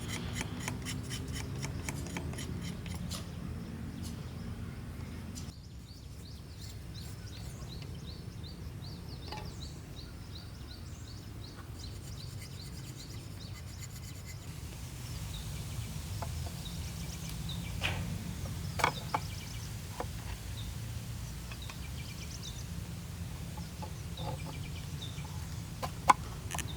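Birds calling in a steady rhythmic run, with a low steady rumble underneath and a few sharp knocks in the second half.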